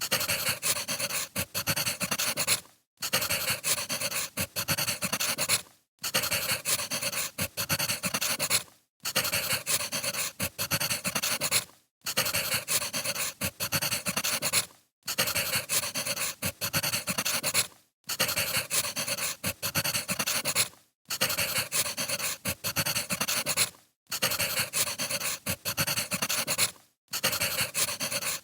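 Wood fire crackling: a dense hiss full of small pops, cut by a brief dropout about every three seconds.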